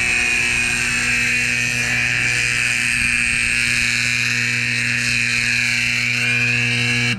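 Grain dryer alarm sounding continuously: a loud, steady high-pitched tone over a steady low hum, cutting off suddenly at the end. The alarm signals that the dryer's wet bin has run empty of grain.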